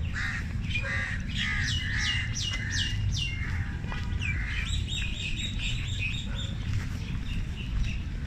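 Birds calling in trees: a falling call repeated about twice a second, then a quicker run of higher chirps about five seconds in, over a steady low rumble.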